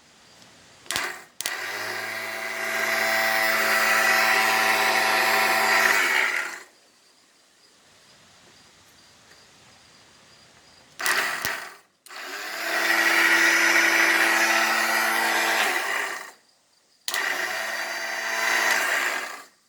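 Electric starter motor of a Kohler K341 single-cylinder engine whirring in three runs of a few seconds each, with a click before the first two. The starter spins but does not turn the engine's flywheel.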